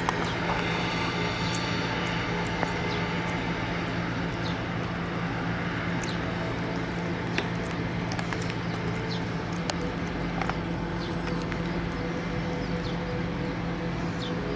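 Boeing 767 jet engines running steadily as the airliner taxis after landing, a constant hum, with irregular ticks of raindrops throughout.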